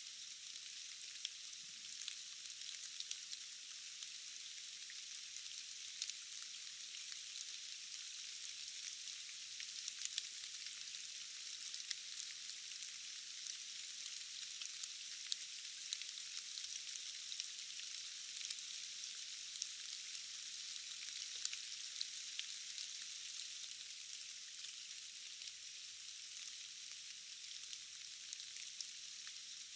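Steady rain: an even hiss dotted with many small, quick ticks of individual drops.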